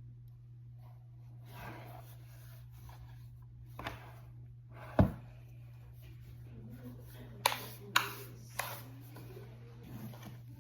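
Objects being handled, with light rustling and a steady low hum. There is one sharp thump about halfway through and a few sharp clicks or knocks near the end.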